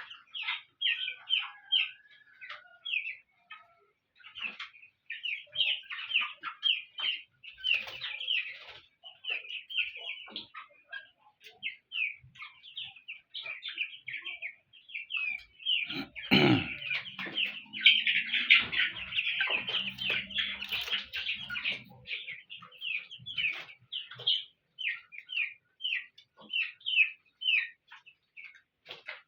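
A flock of three-week-old chickens peeping continuously in many short, high calls. The chorus swells louder around the middle, with a thump about halfway through.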